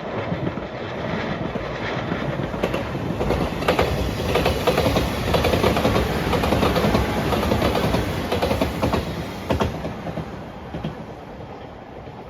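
A train passing close by, its wheels clicking over the rail joints in a steady clickety-clack. It builds quickly, is loudest in the middle and fades over the last few seconds as the train moves off.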